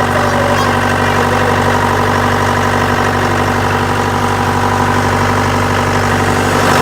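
Diesel engine idling steadily after a cold start in freezing weather.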